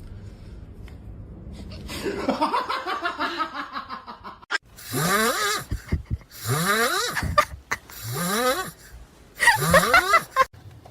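A voice making four rising, warbling cries about a second and a half apart, after a rougher wavering sound.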